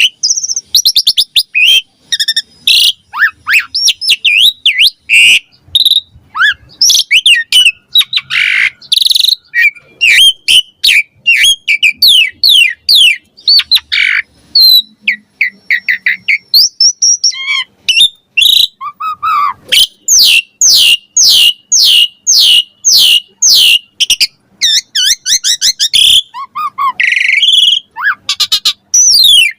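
Asian pied starling (jalak suren) singing a loud, rapid, unbroken run of whistles, chirps and sweeping notes. Past the middle comes a stretch of quick, evenly repeated falling notes, about four a second.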